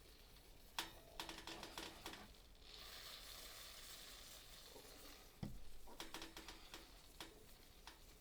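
Faint clicking and rattling handling sounds in two short spells, with a soft steady hiss between them.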